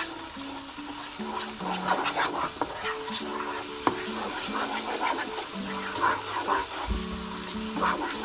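Onion, ginger-garlic paste and ground spices sizzling in oil in a non-stick pot, stirred and scraped round with a wooden spoon. A simple background melody plays underneath.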